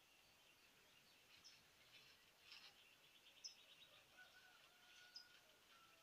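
Near silence with faint birdsong: scattered high chirps and trills, two sharper chirps standing out about three and a half and five seconds in.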